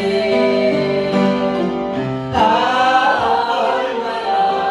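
Congregation singing a worship hymn with instrumental accompaniment: voices hold a long note, and a new sung phrase comes in about two and a half seconds in.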